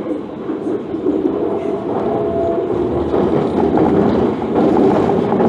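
MTR Ma On Shan Line IKK-Train heard from inside while running: a steady rumble of wheels on the track and traction equipment. A faint short whine comes in about a second and a half in.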